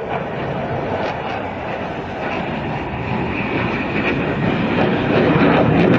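Jet aircraft engine noise, a steady rumble that grows louder about five seconds in.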